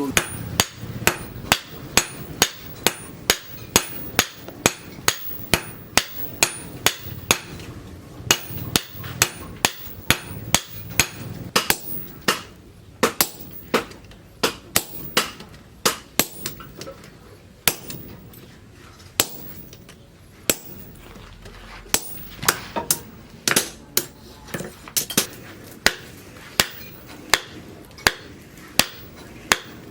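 Hammer blows on steel being forged on an anvil, as rebar is worked into a sickle blade. The strikes are sharp and ringing, falling in a steady rhythm of about two to three a second, with a few short pauses.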